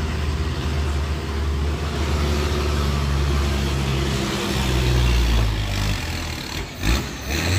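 Bus running on the road: a steady low engine rumble with road noise, and a brief loud thump just before the end.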